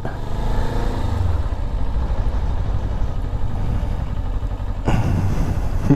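Motorcycle engine running at low revs under way, a steady drone, with a short burst of noise about five seconds in.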